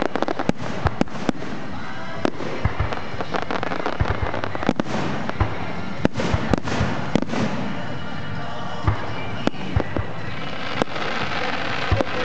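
Aerial fireworks display: an irregular, continuous run of sharp bangs and crackling shell bursts, several a second at times, over a steady wash of noise.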